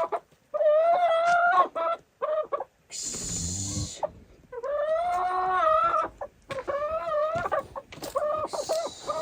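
Chickens clucking and calling, with several drawn-out, wavering calls and shorter clucks between them. A brief noisy rustle comes about three seconds in.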